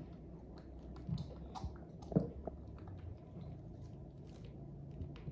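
Wet chewing and small sticky clicks of jackfruit being eaten and pulled apart by hand, with a sharper click about two seconds in.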